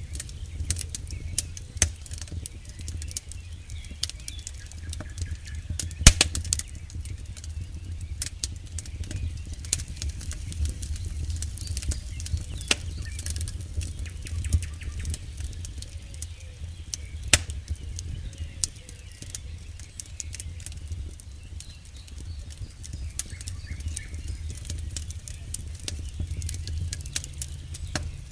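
Wood campfire burning, with frequent irregular crackles and pops over a low, steady rumble of the flames; one loud pop about six seconds in.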